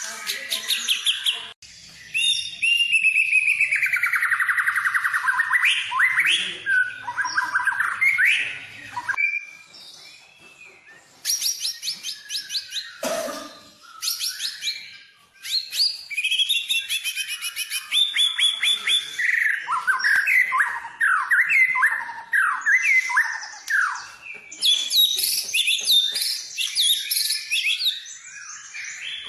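White-rumped shama (murai batu) singing a long, varied song packed with fast trills, sweeping whistles and rapidly repeated notes, broken by a couple of short pauses.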